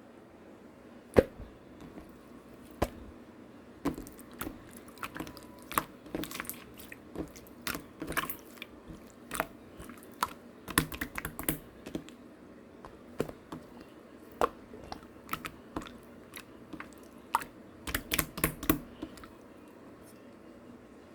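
Slime being squished and poked by hand: an irregular run of sticky clicks and small pops, sparse at first and busiest from about four seconds in until near the end.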